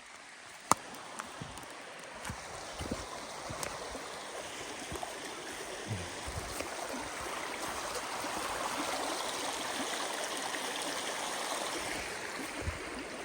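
A small stream running steadily, its rushing growing louder over the first several seconds, with a sharp click about a second in.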